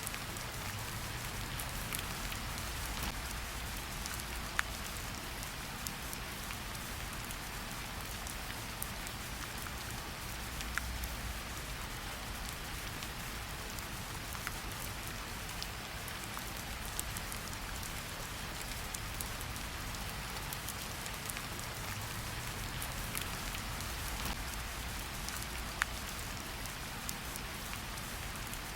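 Steady rain falling in a forest, an even hiss with scattered individual drops striking close by.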